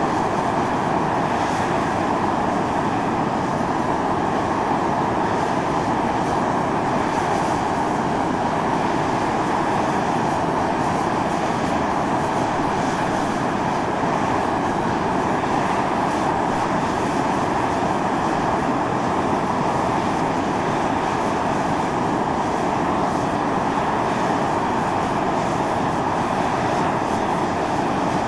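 Volcanic fumarole jetting steam in a steady, unbroken hiss, even in level throughout.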